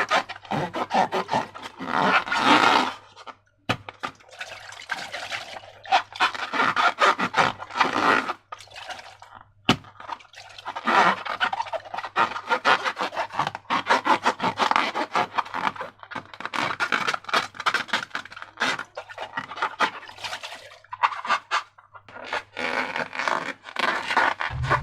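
Slime being worked and mixed: repeated sticky rubbing, scraping and squishing strokes with small clicking pops, coming in irregular bursts with short pauses.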